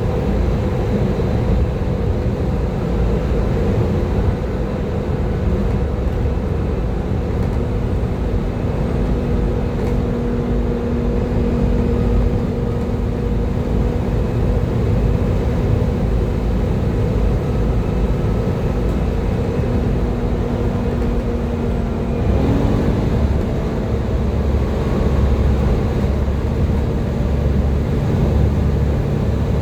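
Volvo B7TL double-decker bus engine running under way, a steady mechanical rumble with a whining tone over it, the hoover-like sound that bus enthusiasts call a "Hoover thrash". About 22 seconds in the whine steps up in pitch.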